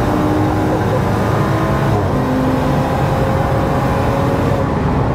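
BMW M135i race car's turbocharged N55 straight-six running hard at high speed, heard from inside the cabin with road and wind noise underneath. The engine note stays fairly steady.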